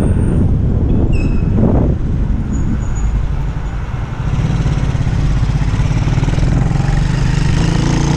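Motor vehicle engine running over low traffic rumble; about four seconds in it settles into a steady low hum, like an engine idling.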